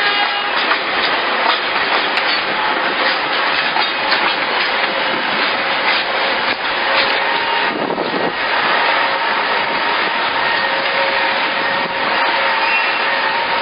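Train rolling along the rails: a steady running noise with many small clicks of the wheels and faint thin squealing tones.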